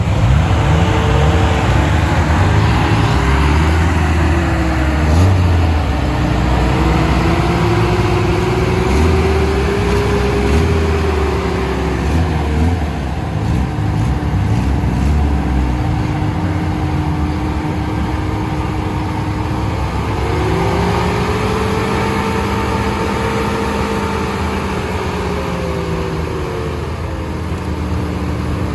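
Radio-controlled off-road truck's electric motor and drivetrain whining steadily, the pitch slowly rising and falling with throttle, over a low rumble.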